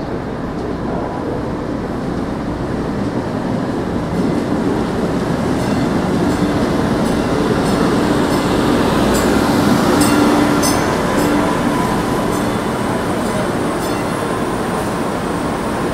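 A passenger train passing on rails. Its noise builds to a peak about ten seconds in and then eases off, with a steady hum and a cluster of sharp wheel clicks near the loudest point.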